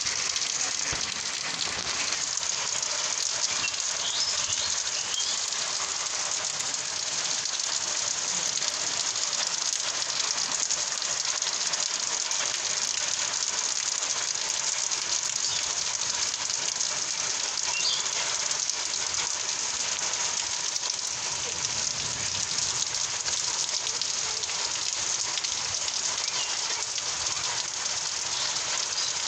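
Steady heavy rain falling on surfaces, a dense, even patter of drops.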